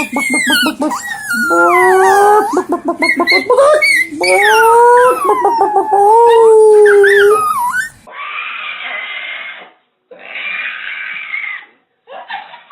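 A dog howling and yowling in long wails that rise and fall in pitch, broken by quick stuttering pulses. About eight seconds in it cuts to quieter, muffled sounds.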